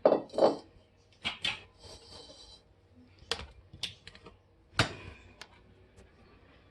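Scattered clinks and knocks of kitchen bowls and utensils being handled and set down while cake ingredients are readied, with one louder knock near the end.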